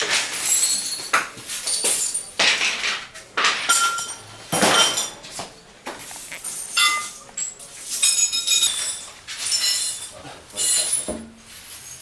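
Glasses and dishes clinking and knocking against each other as they are handled: many short, sharp chinks, each with a brief high ring.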